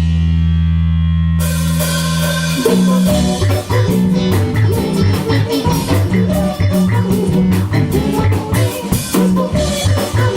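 Live rock band playing: a low chord is held for the first second or so, then drums and cymbals come in, and about three seconds in the full band starts a steady, driving groove with bass, guitar and drum kit.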